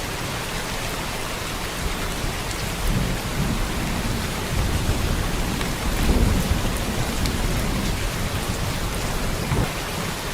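Steady rain pattering down, with low rolls of thunder swelling a few seconds in and again around the middle.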